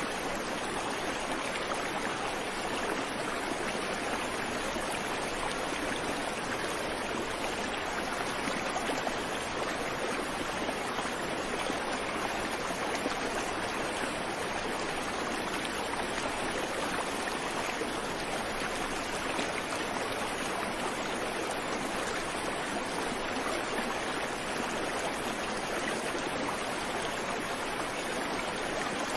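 Creek water flowing steadily over rocks, an even rushing without birds or other sounds.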